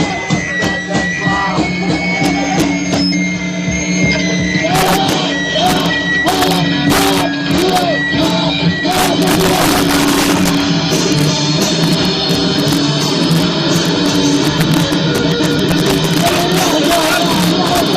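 Live punk band playing loud and distorted, recorded with poor, overloaded sound quality: guitars and drums with sharp cymbal and snare hits, and shouted vocals over the top.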